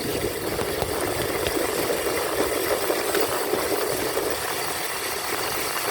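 Dirt bike engine running steadily, with some rattle.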